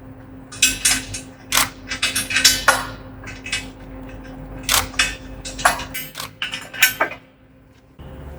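Quick metallic clinks and clanks of steel parts and tools being handled during assembly, several a second with short pauses, over a steady low hum.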